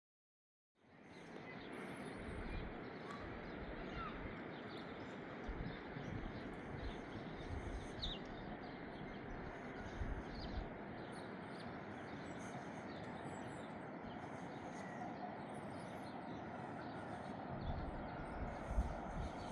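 Outdoor ambience: a steady rushing noise with a few faint bird chirps and occasional low thumps, fading in after about a second of dead silence.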